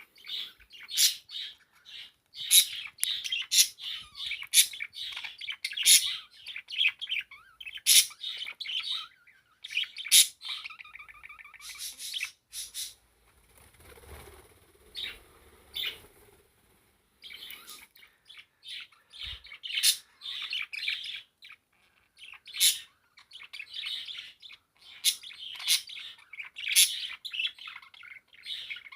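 Pet parakeet singing: a fast, warbling run of chirps, squeaks and clicks, broken by a quieter lull about halfway through.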